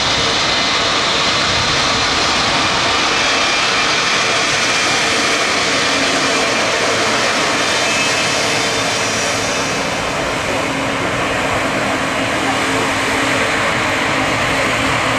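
Aircraft engines running loud and steady: a dense rush of noise with faint high whining tones, easing a little about ten seconds in.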